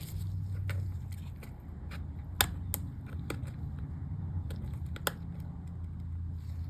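Small plastic clicks and taps of MacBook keycaps being handled and pressed on the keyboard, a few sharp clicks scattered through, the loudest about two and a half seconds in and again near five seconds, over a steady low hum.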